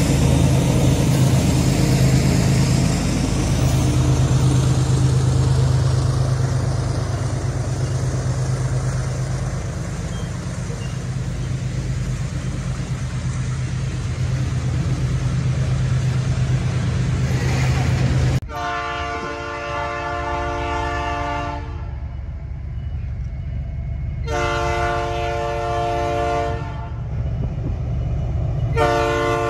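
Freight train passing close: the low drone of its diesel locomotives fades as the long string of wagons rumbles by. After an abrupt change, an approaching diesel locomotive sounds its air horn in three long blasts for a level crossing.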